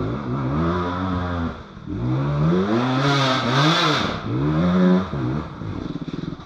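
150cc dirt bike engine revving hard, its pitch rising and falling in about four surges of throttle, then dropping away near the end.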